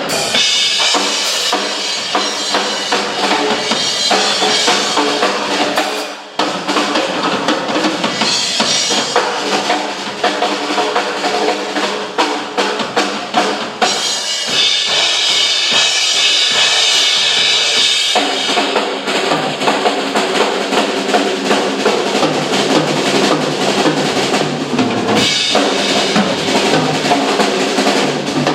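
Two drum kits played together live: a dense, fast stream of snare, bass drum and cymbal strikes, breaking off briefly about six seconds in.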